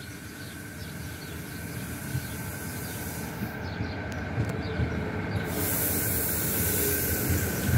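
Renfe Media Distancia multiple-unit train arriving at the platform. Its rumble grows steadily louder as it approaches and runs alongside, and a hiss sets in about two thirds of the way through as the cars pass close by.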